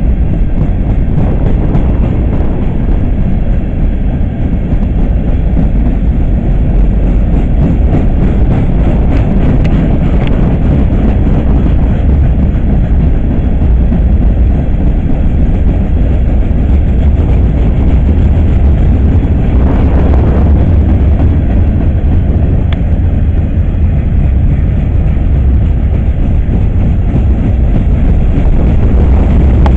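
Long freight train of open-top hopper cars rolling past: a loud, steady rumble of steel wheels on rail with scattered clicks and clatter from the wheels and cars.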